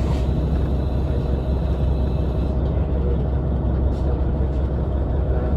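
Diesel railcar engine running with a steady low rumble.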